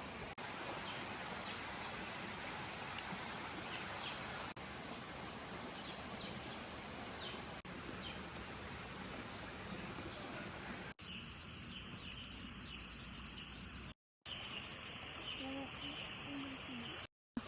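Outdoor rural ambience: a steady hiss with scattered short bird chirps. About eleven seconds in, after a cut, it gives way to a steady high-pitched insect or bird chorus with a few short calls near the end.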